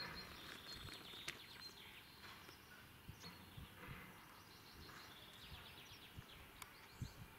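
Faint outdoor ambience with scattered small bird chirps and short trills.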